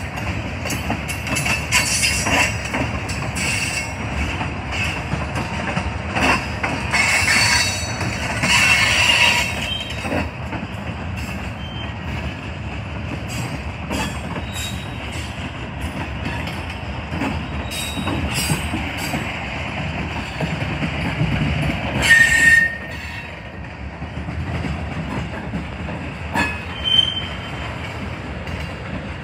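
Train cars rolling past at low speed: a steady rumble of wheels on rail with repeated clicks and clanks, and short high wheel squeals now and then, the sharpest one about 22 seconds in.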